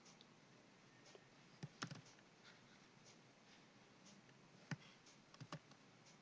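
Near-silent room tone with a few faint computer keyboard clicks: a short cluster about two seconds in and a few more near the end.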